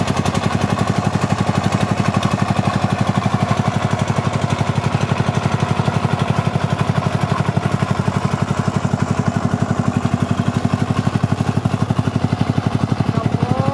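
Single-cylinder diesel engine of a Vietnamese công nông farm truck running at a steady speed with a rapid, even chugging.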